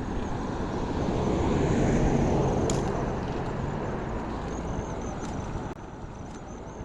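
A motor vehicle passing on the road, its tyre and engine noise swelling to a peak about two seconds in and then fading away. A single sharp click sounds just before the three-second mark.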